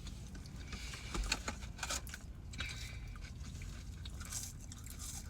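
Close-up eating sounds: chewing fast-food chicken nuggets and fries, with irregular small crunches and clicks.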